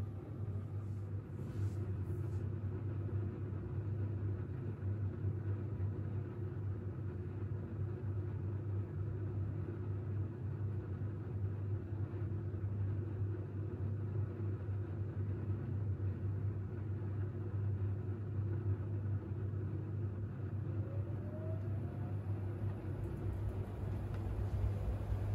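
Siemens iQ700 front-loading washing machine running through its wash cycle, a steady low mechanical hum with the drum and motor turning. A faint short rising whine comes in about three-quarters of the way through.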